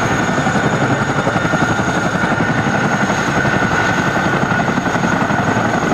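Boeing CH-47D Chinook tandem-rotor helicopter approaching: a loud, steady, rapid rotor chop under a constant high turbine whine.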